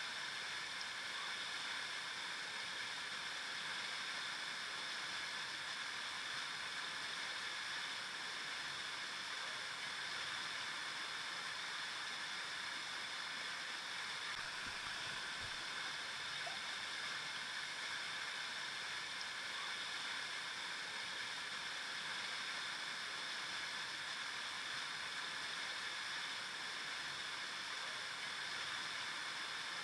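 River water flowing over rocks: a steady rushing and babbling that holds even throughout.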